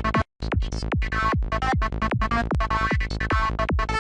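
Psytrance loop at 150 BPM: a kick drum on every beat under a fast line of short notes from an NI Massive synth lead, its scream filter followed by a high-pass filter on filter 2. The sound cuts out for a moment about a quarter second in, then resumes.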